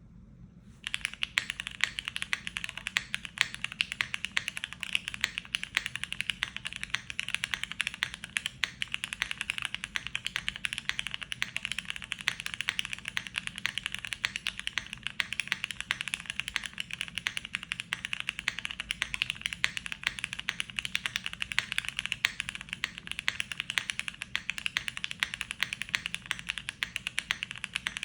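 Steady fast typing on a Transition TKL mechanical keyboard with Cherry Hyperglide Black linear switches on a polypropylene top-mount plate, starting about a second in: a dense run of keystroke clacks.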